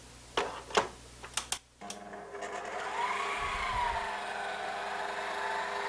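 Stand mixer (dough kneader) switched on: a few clicks, then its motor starts about two seconds in and runs steadily, mixing flour, salt, sugar, baking powder and butter for dough.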